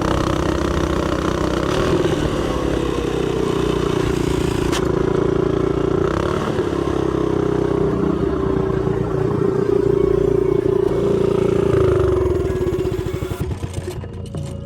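Motorcycle engine running steadily under way, its note easing off shortly before the end.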